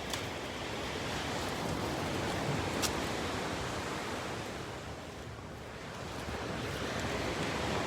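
Ocean surf: waves breaking and washing in, swelling and easing off, with a couple of small sharp ticks.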